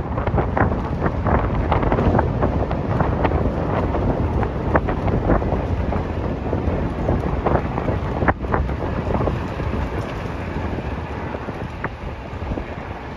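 Wind buffeting the microphone of a moving motorbike, a steady low rumble of wind and road noise with frequent brief crackles, easing a little near the end.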